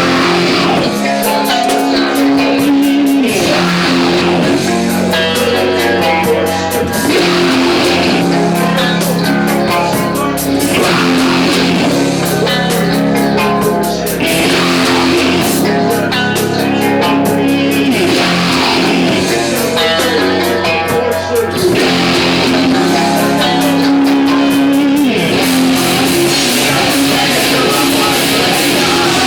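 Rock music led by guitars: steady chords over bass and drums, with no singing.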